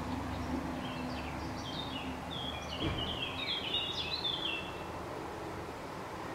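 A songbird singing a quick run of short chirping notes for about four seconds, stopping near the five-second mark, over a steady low background hum.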